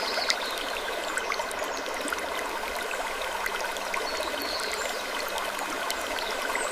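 Wood creaking ambience: faint short creaks about every four seconds over a steady hiss with many small ticks and crackles, which also has the sound of trickling water.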